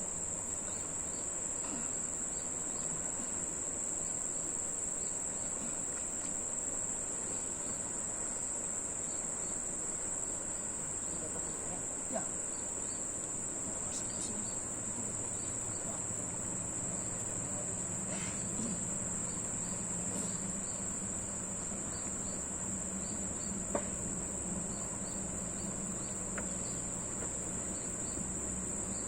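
Insects, such as crickets, trilling in a steady, unbroken, high-pitched chorus, with a few faint knocks scattered through it.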